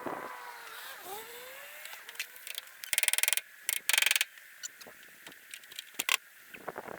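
Two short, loud buzzing bursts from a power tool, about half a second each and a second apart, as bolts are worked loose on the golf cart's front end, with scattered clicks and knocks of tools and parts.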